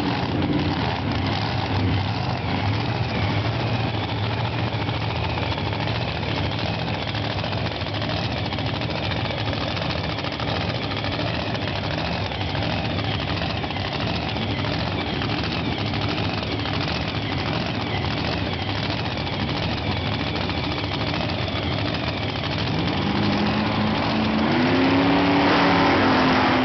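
Supercharged drag-racing engine of a Holden HQ Monaro idling steadily, then, about 23 seconds in, revving up, rising in pitch and getting louder.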